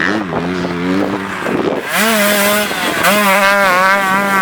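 Motocross dirt bike engines revving hard on the track. The pitch climbs sharply near the start, again about two seconds in and once more a second later, holding high each time.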